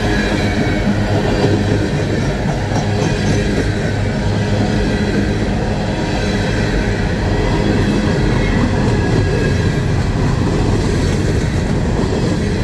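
Empty coal hopper cars of a long freight train rolling past slowly, about 20–25 mph, with a steady rumble and clatter of steel wheels on the rails.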